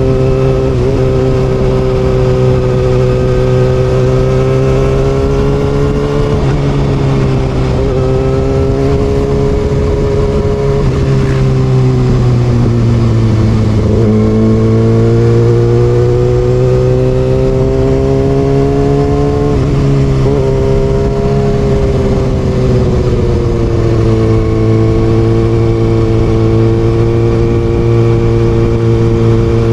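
Kawasaki ZX6R inline-four motorcycle engine with an Austin Racing exhaust, running under way. Its pitch climbs and falls as the throttle opens and closes, with brief dips at gear changes every few seconds.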